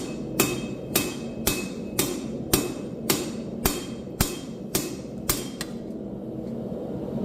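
Forging hammer striking hot steel on an anvil in an even rhythm of about two blows a second, some with a short metallic ring, stopping about five seconds in. A steady low rushing noise continues underneath.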